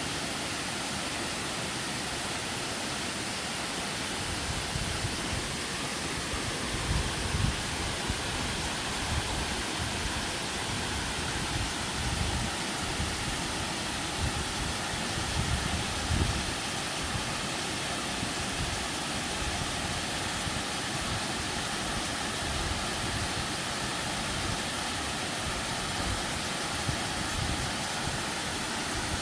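Steady rushing of running water in a forest, with irregular low thumps from about four seconds in.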